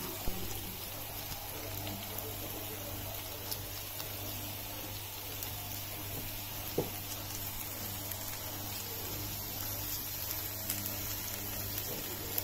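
Potatoes faintly sizzling in a non-stick pan over a steady low hum, with a few faint clicks.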